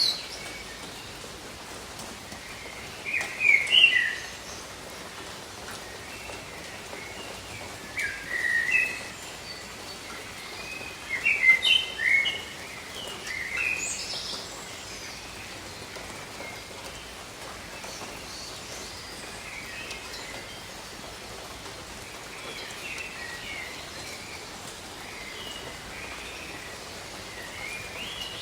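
Steady rain falling on jungle foliage, with several loud bursts of chirping, whistled bird calls in the first half and fainter calls in the second half.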